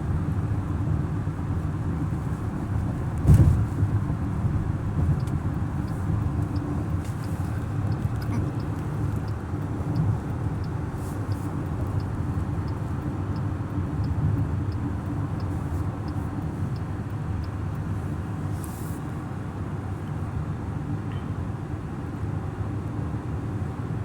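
A car driving, with a steady low rumble of engine and road noise. There is a single thump about three seconds in and a light, regular ticking, about two a second, through the middle.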